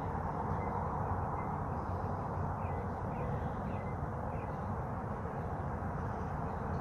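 Steady rushing of a waterfall, with a few faint bird chirps near the middle.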